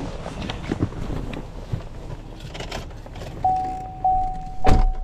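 Keys jangling and small clicks and rustles, then a vehicle's steady warning chime that starts about three and a half seconds in and sounds again half a second later. A heavy thump comes near the end.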